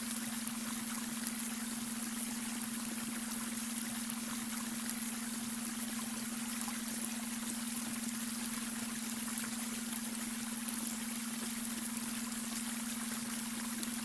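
Babbling brook: water running and trickling steadily over stones, with a steady low tone underneath, the added beta brainwave tone.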